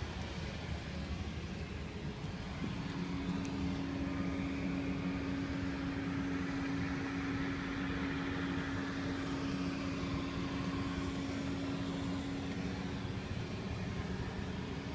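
Steady background machinery noise, with a steady mid-pitched hum that starts about three seconds in.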